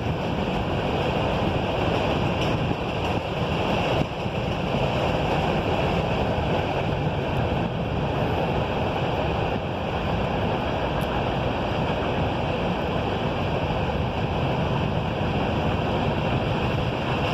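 Norfolk Southern train rolling past at speed: a steady rumble of wheels on rails.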